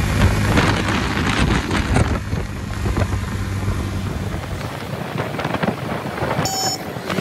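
A vehicle engine running under wind buffeting the microphone. The low engine hum fades out about halfway through, and a short electronic blip sounds near the end.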